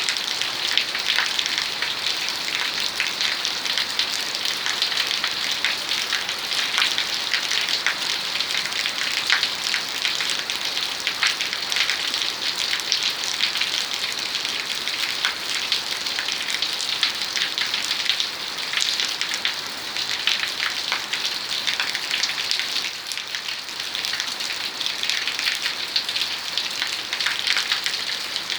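Steady rain falling, a dense hiss with many individual drops striking close by.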